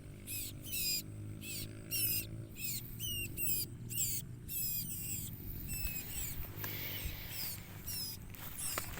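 Ciblek koya chicks begging: a rapid run of thin, high squeaky chirps, several a second, thinning out over the last few seconds.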